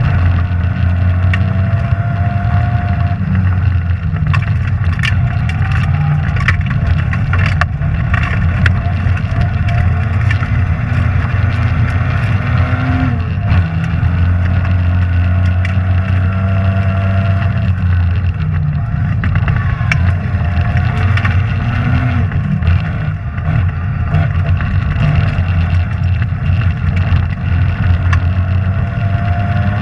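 Rally car's engine heard from inside the car, at high revs, climbing and dropping repeatedly through gear changes and lifts. Scattered sharp clicks and rattles over the engine.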